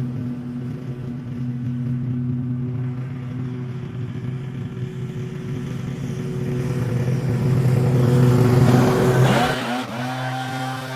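An engine running steadily. A rushing noise swells and is loudest about nine seconds in, then cuts off suddenly and the engine note changes.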